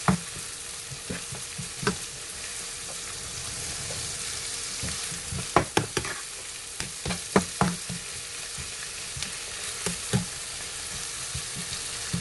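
Spice paste and red chillies sizzling in oil in a non-stick frying pan, stirred with a silicone spatula that knocks and scrapes against the pan several times. The knocks bunch together about halfway through and again near the end.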